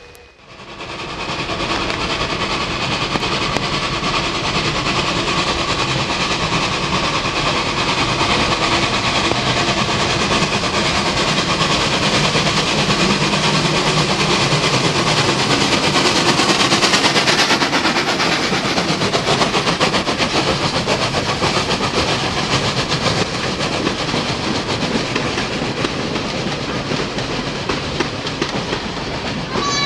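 Steam train running past with the clatter of wheels on rails and the exhaust. It swells up within the first couple of seconds, is loudest a little past halfway, then eases off slightly.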